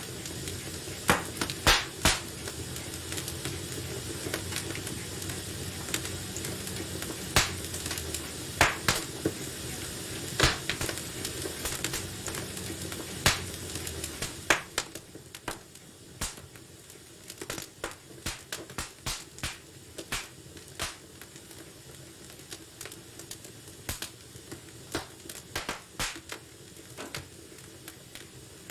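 Wood fire in a fireplace crackling: irregular sharp pops and snaps, several of them loud, over a steady low hiss of burning. The low background rumble drops away about halfway through, leaving the pops over a quieter hiss.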